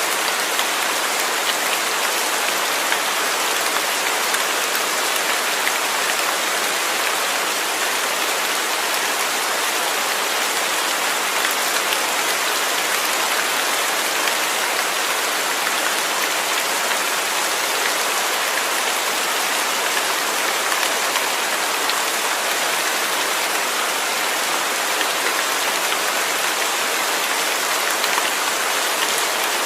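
Steady rain falling on a surface, an even hiss of many drops with fine patters, constant throughout.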